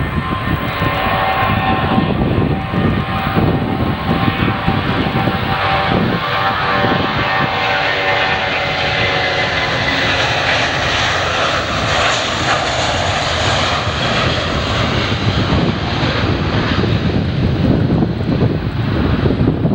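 Jet airliner's engines running loud and steady as it passes, with whining tones that slowly fall in pitch over the first several seconds.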